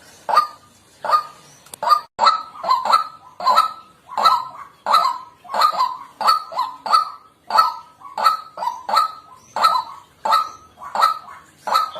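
White-breasted waterhen calling a repeated kwak, kwak, about one and a half to two calls a second, the loud, even rhythm of the bird's territorial call.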